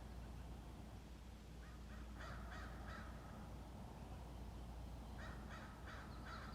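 A bird calling faintly in two quick runs of about four calls each, a few a second, over a steady low rumble. A higher, lighter chirping starts near the end.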